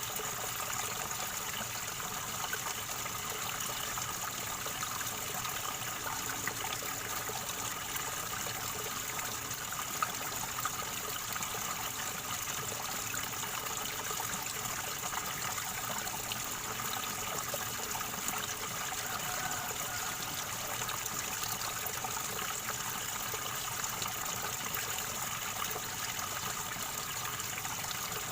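River water gurgling and trickling steadily over stones.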